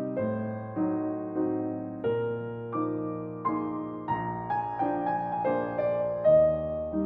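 Slow solo piano music: a gentle melody of single notes over soft chords, each note struck and left to fade.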